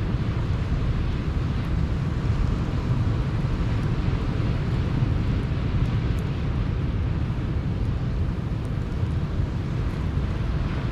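Steady rumble of sea surf with wind buffeting the microphone, and a few faint crackles from a campfire.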